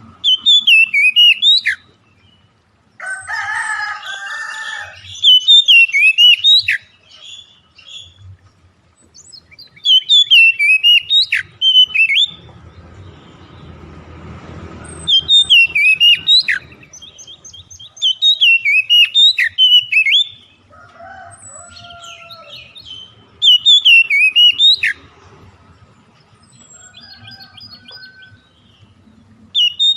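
Recorded songbird song: loud, fast whistled phrases of about two seconds each, repeating every four to five seconds, played as a lure track to get caged birds singing. Between the phrases there are lower, harsher calls and quieter chatter.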